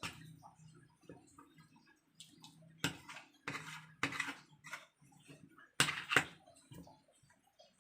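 Chicken being mixed in a wet flour-and-cornstarch batter in a bowl: sharp clinks against the bowl, the loudest about three seconds in and a pair about six seconds in, with wet scraping and mixing noise between them.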